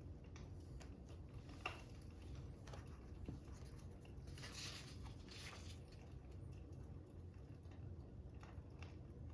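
Fire crackling faintly: scattered, irregular small pops and snaps over a low steady rumble, with a couple of soft hissing swishes about halfway through.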